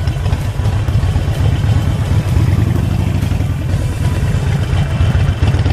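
Harley-Davidson Sportster 48's V-twin engine running steadily with a low, pulsing beat.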